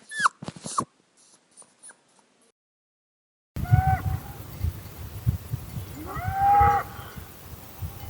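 Animal calls from two clips: first a few quick high squeaks that fall in pitch, then after a short silent gap two whining, dog-like calls, the second longer and louder, over low thumping handling noise.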